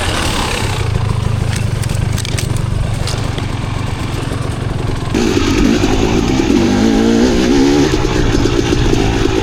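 Dirt bike engine running on a trail, with a few knocks in the first three seconds. About five seconds in the engine gets louder as the throttle opens, its pitch rising and falling.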